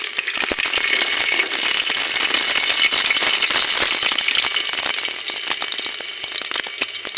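Cumin seeds and chillies crackling and sizzling in hot oil in a pressure cooker: a dense stream of small pops, easing slightly near the end.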